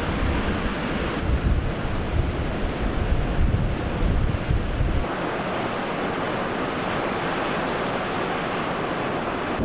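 Ocean surf rushing steadily, with wind buffeting the microphone; the low wind rumble drops away about halfway through.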